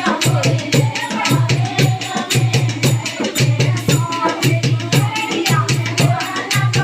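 Indian folk song, a languriya, with singing over fast, steady percussion: a driving drum beat and shaken rattles.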